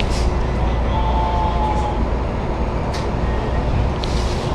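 Electric commuter train's running rumble heard from inside the car while it slows under emergency braking. A faint brief squeal comes about a second in, and a couple of short clicks come near the end.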